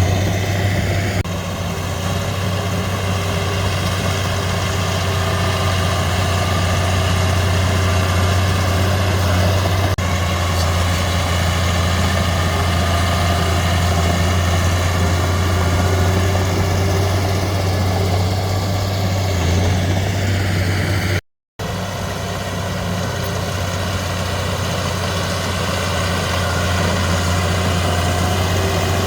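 Heavy-equipment diesel engine running steadily with a deep, even hum. The sound cuts out completely for a fraction of a second about three-quarters of the way through, then resumes unchanged.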